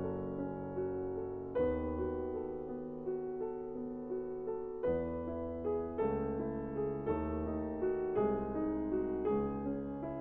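Slow background piano music: a melody over low bass notes and chords struck every second or so.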